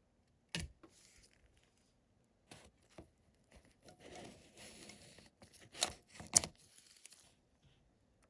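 Small objects being handled on a workbench: a few sharp clicks and knocks, with a second or two of crinkling in the middle.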